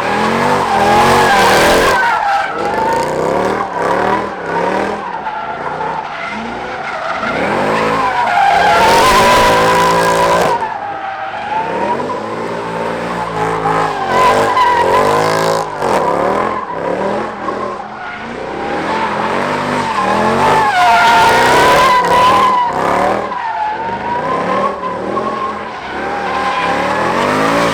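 Car tyres squealing at length while the engine revs up and down repeatedly, the sound of a car drifting or spinning on the tarmac.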